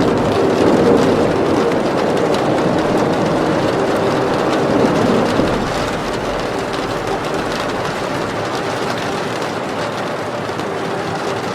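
Steady rain, an even hiss, with a faint low steady tone under it that fades about halfway through.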